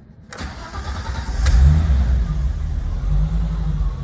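Cold start of a 1987 BMW 325is's 2.5-litre straight-six: the starter cranks it over about a quarter second in, it fires about a second and a half in with a brief flare of revs, then settles into a steady fast cold idle.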